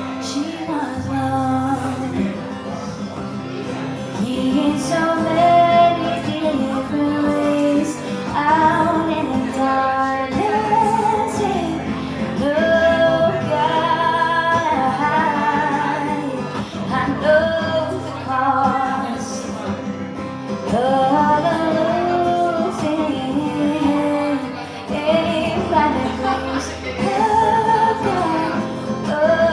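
A woman singing a slow melody, holding and bending long notes, over guitar accompaniment in a live performance.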